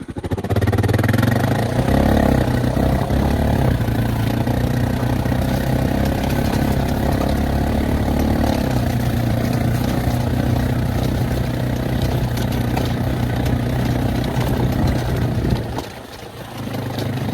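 Engine of a farm vehicle running at a steady speed, dipping briefly near the end and then picking up again.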